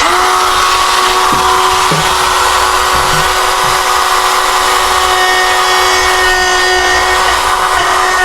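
Electric pistol-grip die grinder switching on and running at a steady high whine, its burr working the exhaust port of an aluminium cylinder head.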